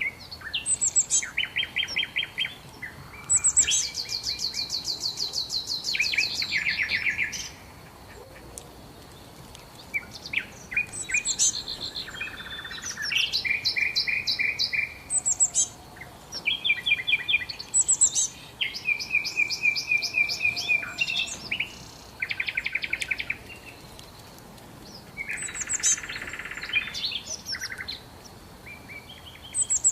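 Songbirds singing: phrases of rapid trilled notes at different pitches, some high and some lower, mixed with quick downward whistles, each phrase lasting one to three seconds with short pauses between.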